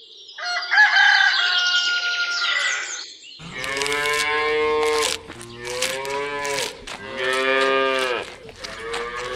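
Cows mooing: three long moos one after another, each about a second and a half, starting about three seconds in, with a fourth beginning near the end. They are preceded by a shorter, higher-pitched chattering sound.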